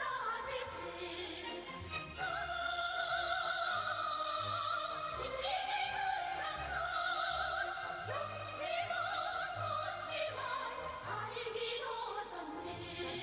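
Operatic singing with wide vibrato on long held notes, over an orchestral accompaniment.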